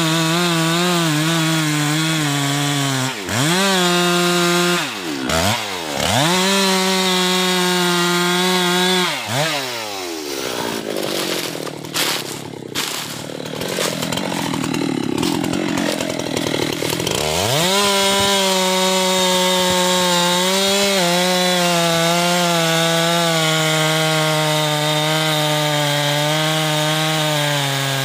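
Husqvarna chainsaw cutting teak wood at full throttle, its engine pitch dipping sharply a few times under load. Midway it falls to a low, rough idle for several seconds, with a few sharp knocks, then revs back up and holds high to the end.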